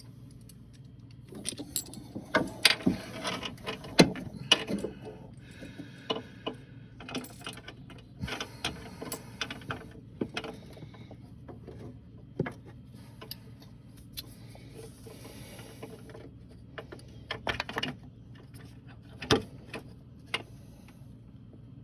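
Irregular metal clinks, knocks and scraping from a long bolt, a socket and extension, and a solid engine mount being worked as the bolt is guided through the mount into the crossmember. The knocks come in clusters, busiest in the first few seconds and again near the end.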